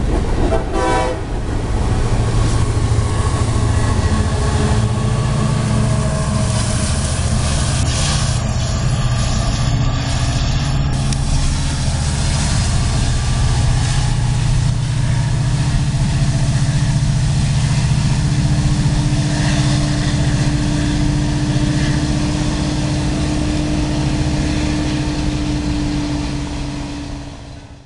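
Freight train passing: rail cars' wheels clatter over the track joints in the first second or so, over the steady low rumble of the CSX diesel locomotive and train. From about halfway a steady hum joins in, and the sound fades out at the end.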